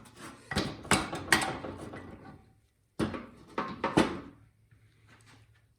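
Metal clinks and knocks of engine parts and tools being handled while the piston is worked out of a torn-down small engine, several sharp hits with brief ringing, in two clusters about two seconds apart.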